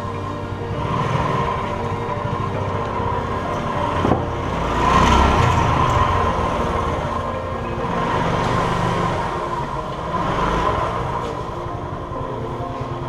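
Motor scooter running while being ridden on a road, its engine hum under road and wind noise that swells and fades several times, with a single click about four seconds in.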